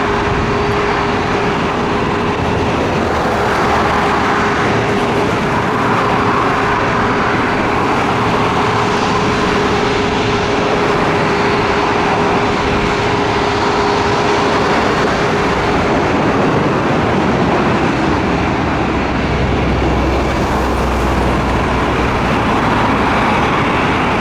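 Jet airliner engines running: a loud, steady rush with a held hum that fades after about sixteen seconds.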